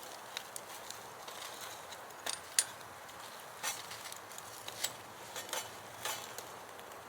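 A dozen or so irregular sharp clicks and light knocks over a faint steady hiss, the loudest about two and a half seconds in.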